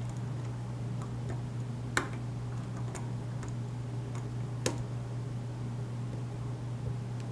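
Light metallic clicks of a lock pick and tension wrench working the pins of a pin-tumbler lock with a Schlage keyway, with two sharper clicks about two and four and a half seconds in, over a steady low hum.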